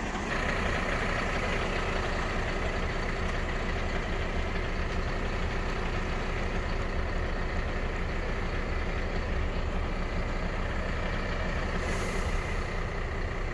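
Mercedes-Benz Econic refuse truck with a Faun body running steadily, with a short hiss near the end.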